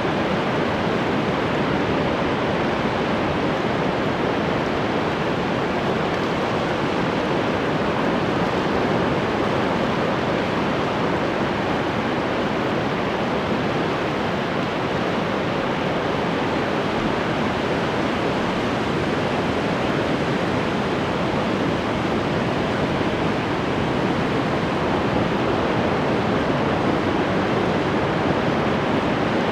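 Ocean surf rushing as a steady, even roar, with no separate wave crashes standing out.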